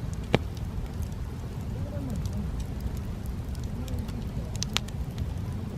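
Wood campfire burning, with a steady low rush from the flames and scattered crackles and pops. The two sharpest pops come less than a second in and near the end.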